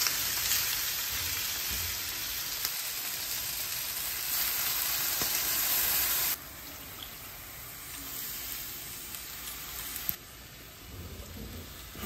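Chicken pieces sizzling as they fry in a pan, stirred with a silicone spatula. About six seconds in the sizzle drops suddenly to a much quieter hiss.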